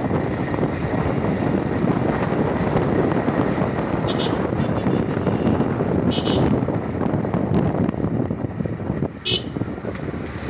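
TVS Raider 125's single-cylinder engine and exhaust running steadily as the motorcycle is ridden, mixed with road noise. Three brief high beeps come about four, six and nine seconds in.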